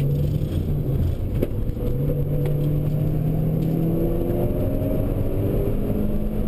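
Mitsubishi Lancer Evolution V's turbocharged four-cylinder engine pulling hard at track speed, heard from inside the cabin. Its note breaks off and drops about one and a half seconds in, then climbs slowly again.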